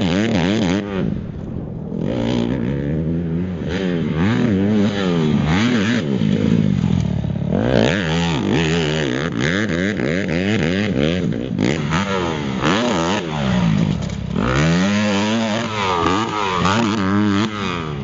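Honda motocross bike engine revving hard and falling back again and again, its pitch climbing and dropping every second or two as the rider accelerates, shifts and rolls off the throttle around the track.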